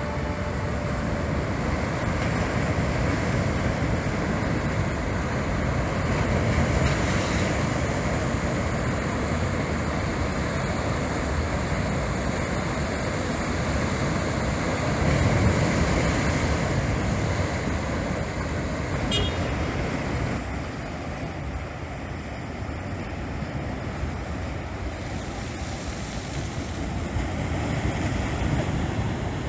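Rough sea surf breaking, with wind blowing on the microphone: a steady rushing noise that swells louder about 7 and 15 seconds in.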